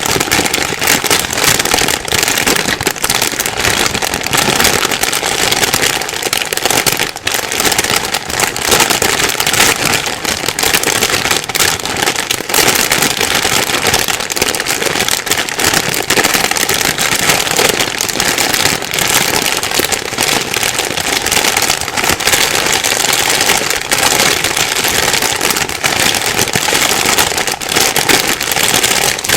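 Plastic bag rustling and crinkling continuously, with a dense stream of crackles.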